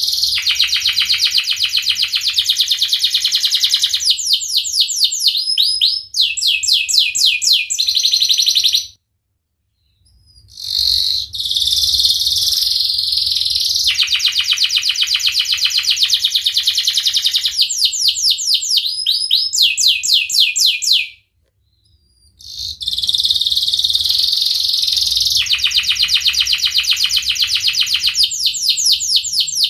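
Domestic canary singing: long rolling trills of rapid, evenly repeated notes that change speed from phrase to phrase, broken by two brief pauses, about nine and twenty-one seconds in.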